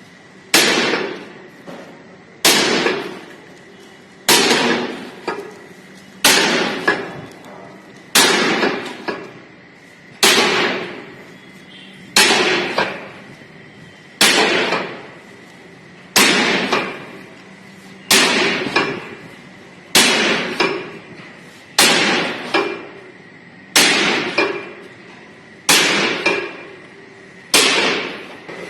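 Repeated metal-on-metal strikes during steel plate rolling work, each a sharp ringing clang, about one every two seconds, over a faint steady hum.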